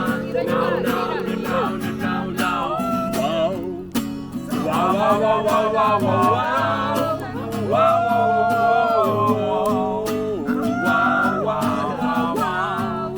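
Acoustic guitar strummed with a voice singing over it in long held notes.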